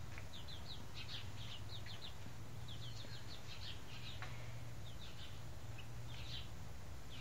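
Small birds chirping: short high chirps in quick clusters of two to four, repeating every second or so, over a steady low hum.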